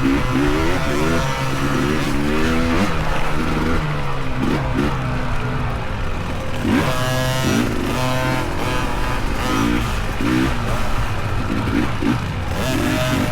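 Off-road dirt bike engines revving up and backing off again and again, the pitch climbing in short repeated sweeps over a steadier low engine drone.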